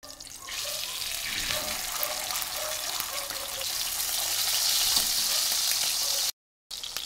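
Beef burger patties sizzling and crackling in hot oil in a stainless steel frying pan. The sizzle grows louder in the first second as a second patty is laid in. The sound cuts out briefly near the end.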